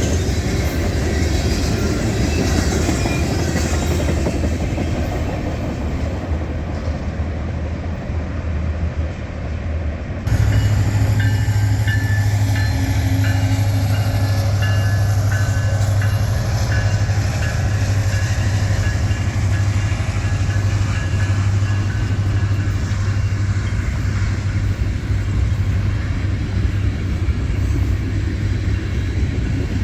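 A train rolling past, a continuous rumble of wheels on rail. About ten seconds in the sound changes abruptly to a louder, deeper rumble.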